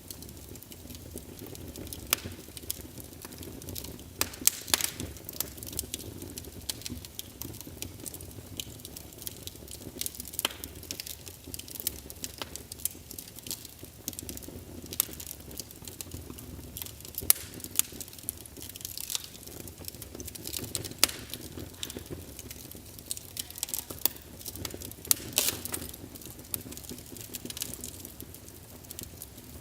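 Wood fire burning in a fireplace: logs crackling with irregular sharp pops over a low, steady rush of flame.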